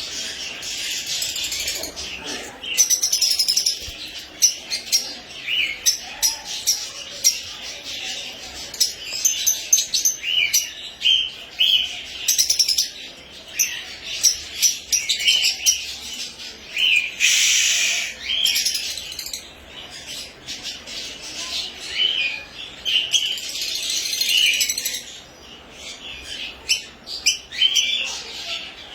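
Yellow lovebirds chirping: many short, high calls in quick irregular succession, with one longer, louder harsh call about two-thirds of the way through.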